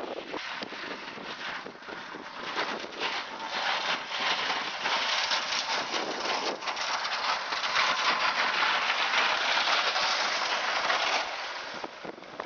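Falling snow driven by the wind onto the microphone, making a crackling hiss like rain. It grows louder after a few seconds and cuts off suddenly near the end.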